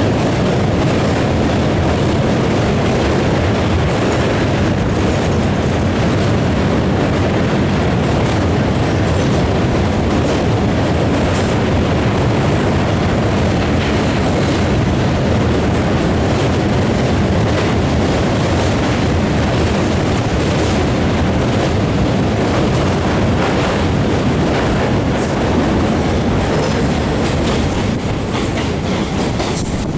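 Passenger train running, a steady loud rumble with occasional faint clicks from the wheels on the rails.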